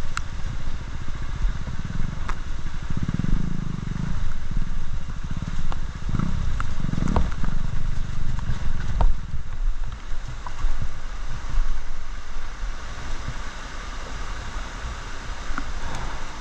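Off-road motorcycle engine working under load, revving up in two swells, with a steady rush of noise and a few knocks and clicks.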